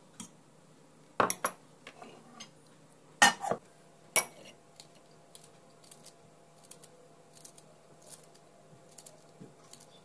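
Dishes and cutlery clinking and clattering: a few sharp knocks about a second and three to four seconds in, then light scattered ticks.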